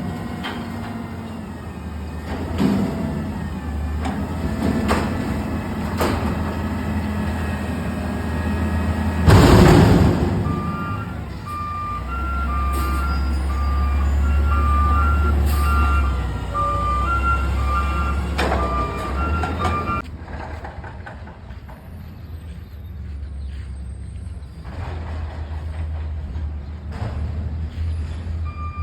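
Front-loader garbage truck's diesel engine running with a steady low rumble, with a loud burst of noise about nine seconds in. Its backup alarm then beeps repeatedly for about ten seconds and starts again near the end.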